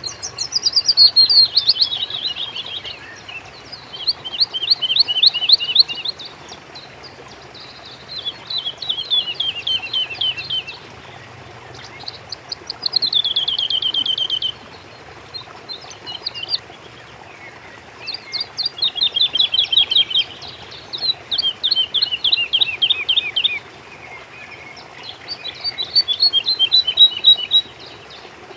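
A songbird singing a repeated song, each phrase a fast series of falling notes lasting one to three seconds, recurring about every four seconds.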